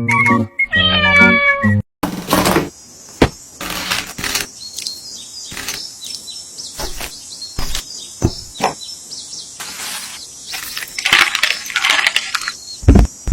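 A short burst of upbeat plucked-string music cuts off about two seconds in. A cat meows against a run of sharp knocks and clicks over a steady hiss, with a longer noisy stretch near the end.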